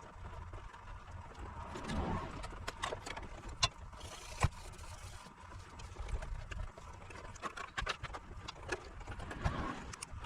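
Bench repair work on an inverter circuit board: scattered light clicks and taps of tools and parts being handled, with a brief hiss about four seconds in, over a faint steady hum.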